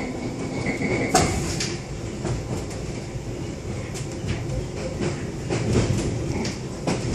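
London Underground District line train running, heard from inside the carriage: a steady rumble and rattle with irregular sharp clacks of the wheels on the track, the loudest about a second in. A faint high squeal fades out in the first second or so.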